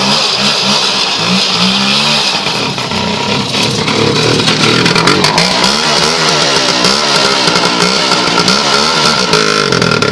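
Voskhod motorcycle's two-stroke single-cylinder engine running and being revved up and down over and over. The engine is cold and not yet warmed up.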